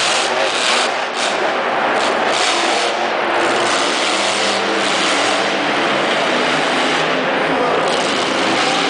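Monster truck engine running loud at full throttle, a dense, steady engine noise with a few brief surges in the first three seconds.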